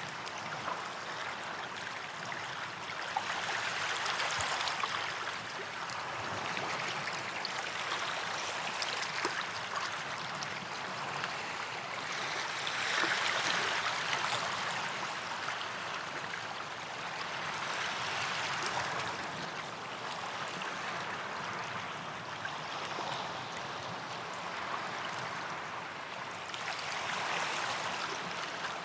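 Small waves washing and fizzing on a sandy beach, swelling and ebbing every few seconds.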